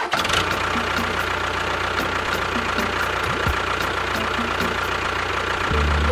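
Engine running steadily at idle, like a small tractor's engine. A steady low musical tone comes in near the end.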